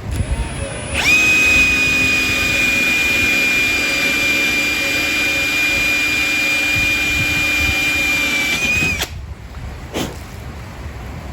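Power tool's electric motor running with a steady high whine for about eight seconds. It starts about a second in and stops sharply, followed by a single knock.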